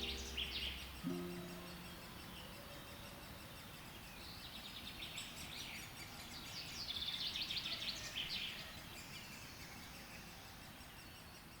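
A songbird singing in short phrases of quick trills, the loudest around seven to eight seconds in, over a faint steady hiss and fading toward the end. A sustained music chord ends about a second in.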